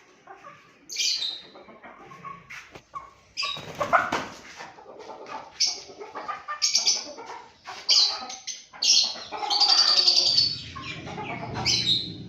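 Chickens (hens) calling in a string of short, high squawks about once a second, with wing flapping among them. One longer call comes about ten seconds in.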